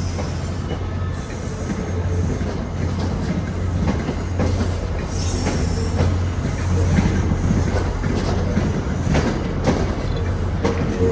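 MBTA commuter train rolling slowly out, its wheels clicking over rail joints and switches over a steady low diesel hum. A steady wheel squeal starts near the end.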